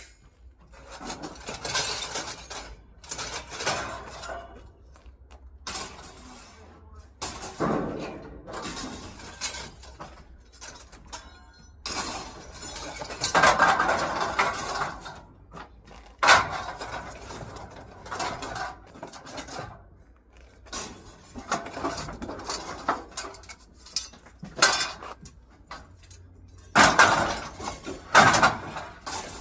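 Pieces of scrap metal being handled and sorted, clanking and rattling in irregular knocks and clatters, with a few louder crashes near the middle and end.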